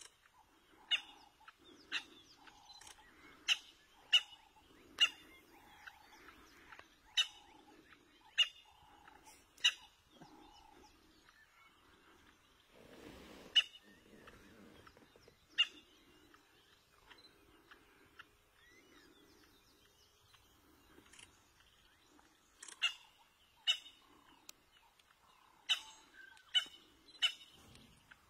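A bird calling over and over: sharp high notes about once a second, with softer, lower notes between them. The calls lull for several seconds in the middle, then start again.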